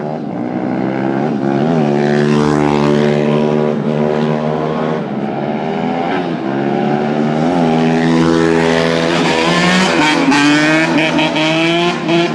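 Dirt bike and pit bike engines revving, more than one engine at once, the pitch climbing and dropping repeatedly as they accelerate and change gear, with one long rising rev near the end.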